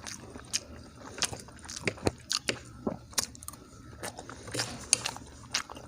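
Close-up eating sounds: a person chewing soft food, with irregular wet mouth clicks and smacks several times a second.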